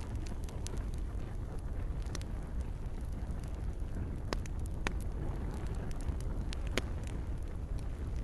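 Campfire crackling, with sharp irregular pops and snaps over a steady low rumble. One pop near the end is the loudest.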